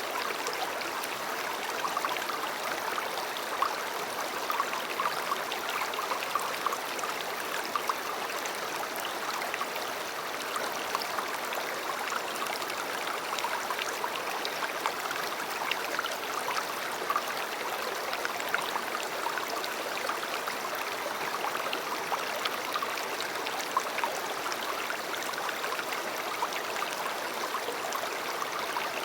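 A river running steadily, its water burbling and splashing over stones.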